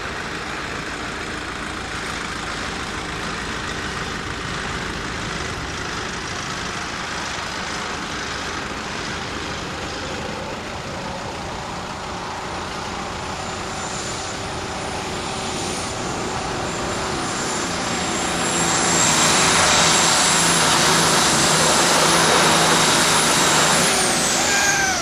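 Pulling truck's engine running under load, growing louder to full power with a steady high whistle over the engine note. Near the end the throttle comes off, and the whistle winds down in a falling glide as the engine drops away.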